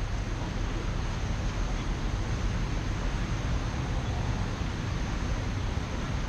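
Steady hiss of rain, with a low rumble underneath, picked up on a GoPro action camera's microphone.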